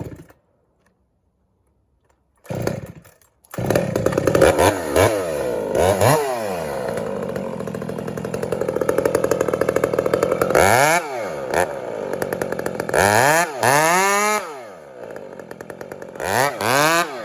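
Chainsaw cutting into a large tree being felled, starting a few seconds in and running hard under load, its engine speed rising and dropping back several times as the cut goes on.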